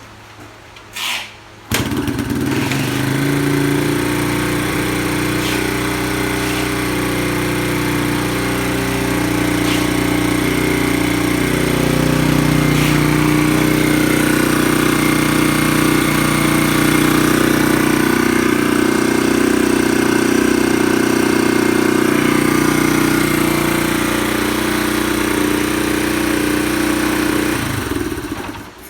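Yamaha Serow 225's air-cooled single-cylinder four-stroke engine starting: a short burst about a second in, then the engine catches and runs at a steady idle, and near the end it is shut off and dies away.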